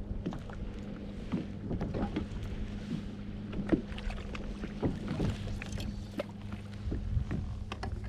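Scattered light knocks and clicks of fishing gear being handled aboard a kayak, over a steady low hum.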